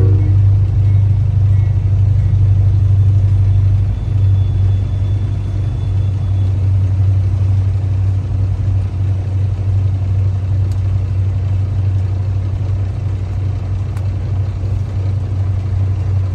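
Semi truck's diesel engine idling, a steady low drone heard from inside the cab, dipping slightly in level about four seconds in.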